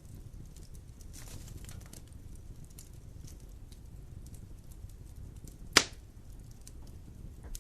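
Wood fire burning in a fireplace: a low steady rumble of flames with scattered small crackles, and one sharp loud pop about six seconds in.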